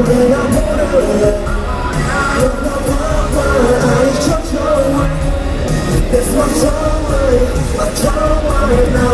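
Loud live concert music over an arena sound system, with singing over a heavy beat and fans screaming.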